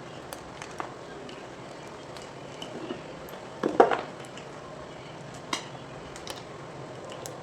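Gym chalk being twisted and crushed, giving scattered small cracks and crackles, with one louder crunch a little under four seconds in and a sharp crack about five and a half seconds in.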